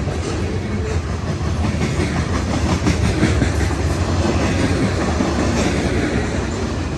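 Freight cars of a westbound BNSF manifest train rolling past: a steady, loud rumble of steel wheels on rail with the clickety-clack of wheels crossing rail joints.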